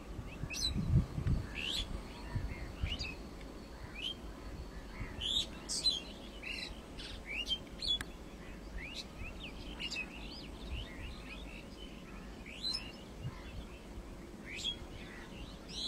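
Small birds chirping, many short rising and falling notes a second or less apart. There is a faint low rumble about a second in.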